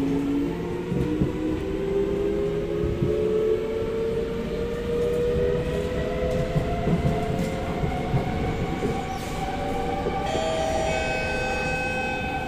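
SMRT C751B train's electric traction motors whining inside the carriage as the train accelerates out of the station, several tones rising in pitch together and then levelling off over the steady rumble of wheels on rail. About ten seconds in, a set of steady higher tones joins in.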